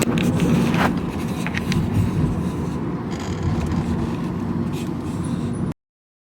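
Road noise inside a moving car: a steady low rumble with a few faint clicks. It cuts off abruptly to dead silence near the end.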